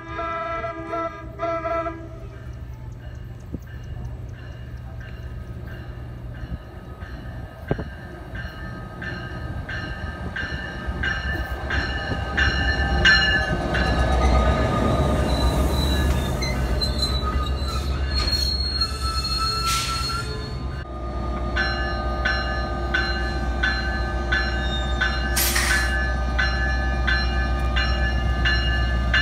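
NJ Transit PL42AC diesel locomotive and train arriving: a short horn blast at the start, then the locomotive bell ringing at an even beat throughout. Wheel and brake noise builds in the middle as the train comes alongside, and the diesel engine runs steadily near the end.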